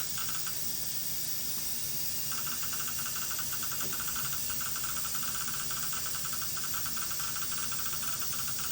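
Intraoral scanner running during a digital mouth scan: a steady hiss with a rapid, even train of short high beeps that begins about two seconds in, marking continuous image capture.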